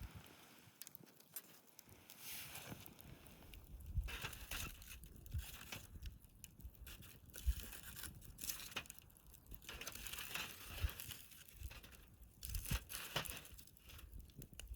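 Wood fire crackling, with irregular sharp pops and snaps and a low rumble underneath from about four seconds in.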